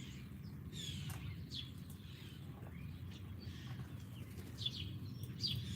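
Wild songbirds chirping outdoors: short, high, falling chirps at irregular intervals, coming thicker and louder near the end. There is a steady low rumble underneath.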